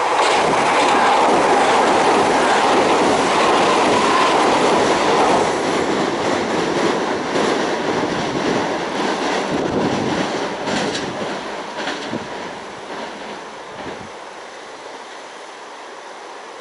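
A Kintetsu Minami-Osaka Line train running past on the rails and moving away. It is loudest at first, then fades steadily over about fourteen seconds.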